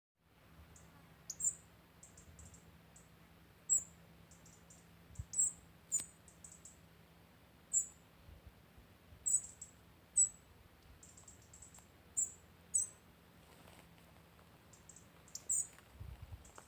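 Short high-pitched chirps, some in quick runs of several, repeating irregularly every second or two, over a faint low steady hum.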